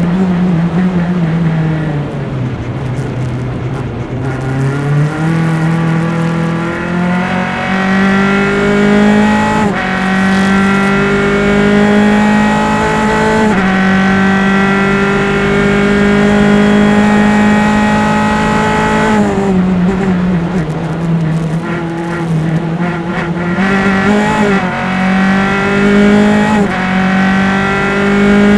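Single-seater race car engine heard on board at racing speed. It drops in pitch as the car brakes and downshifts, then climbs back up through the gears with several upshifts and holds high revs. About two-thirds of the way through it drops again under braking, then pulls up through the gears once more.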